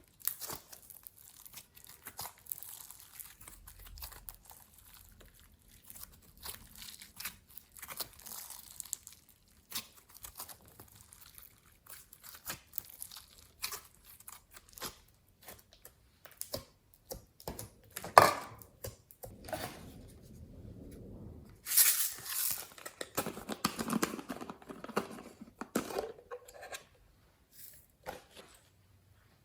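Hands kneading and stretching slime mixed with clay, giving sticky crackles, pops and small clicks. A sharp pop comes about two-thirds of the way in, and a louder run of crackling and squelching follows near the end.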